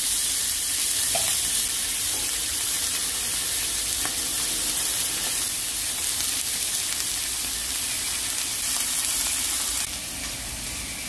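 Food sizzling as it fries in a hot pan: a steady hiss with a few light clicks, growing quieter about ten seconds in.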